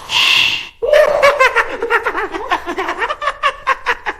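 A short breathy burst, then a long run of rapid laughter, about five or six pulses a second.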